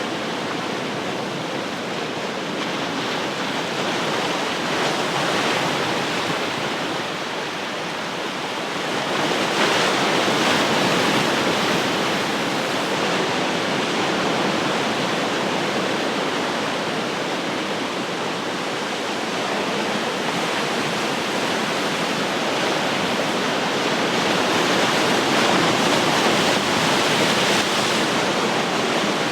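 Ocean surf: a continuous wash of breaking waves that swells and eases over several seconds, louder about nine seconds in and again near the end.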